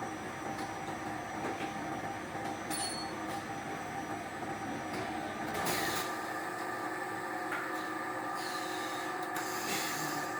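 Industrial machinery running steadily with a constant hum, with a few short hisses about a third of the way in, halfway, and near the end.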